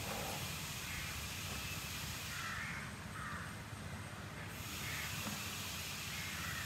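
Several short bird caws, the clearest about two and a half seconds in, over a steady high hiss of outdoor background.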